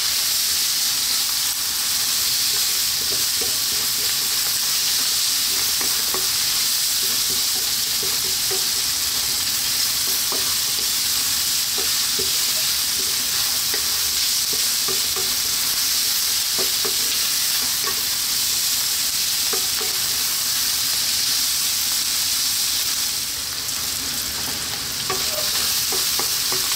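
Chopped bacon, onion, celery and garlic sizzling steadily in a non-stick wok over high heat, stirred continually with a wooden spoon that scrapes and lightly taps the pan.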